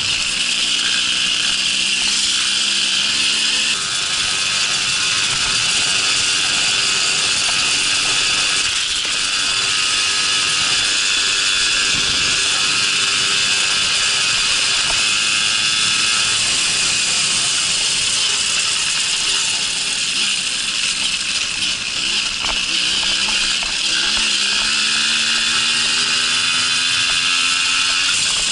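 Babetta moped's small two-stroke single-cylinder engine running under way, with a steady buzzing hiss over it. The engine note shifts, and its revs climb in the last few seconds.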